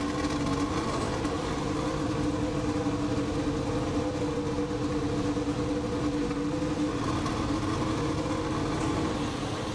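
Mercedes 1.6-litre turbocharged V6 hybrid Formula 1 power unit running at steady revs in the pit lane, with a constant, even engine note.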